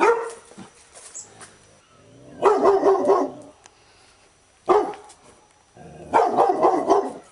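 Labrador retriever barking in bouts: a single sharp bark at the start, a quick run of barks about two and a half seconds in, another single bark near five seconds, and a second run of barks near the end.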